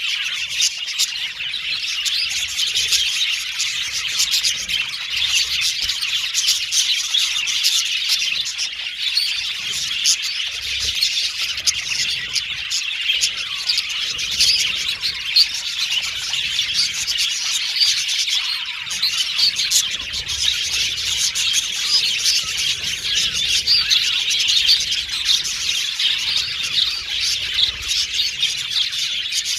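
Many budgerigars chirping and chattering at once, a dense unbroken mix of quick tweets, whistles and warbles.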